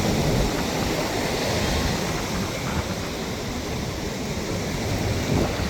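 Steady rush of ocean surf on a beach, mixed with wind rumbling on the microphone.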